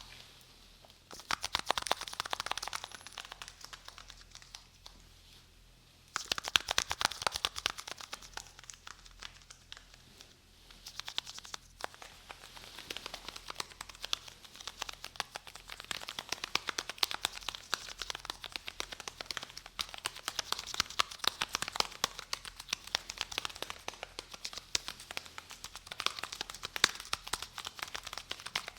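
Adhesive tape crackling and crinkling as it is handled and peeled, close to the microphone. It comes in two bursts about a second in and about six seconds in, then goes on almost without pause from about eleven seconds.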